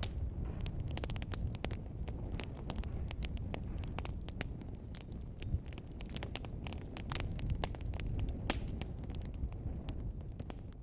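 Wood fire burning in a fireplace: dense, irregular sharp crackles and pops over a low steady rumble of the flames.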